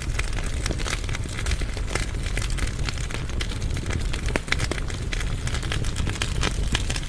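Firewood burning in a fireplace firebox: frequent sharp crackles and pops over a steady low rumble of the flames.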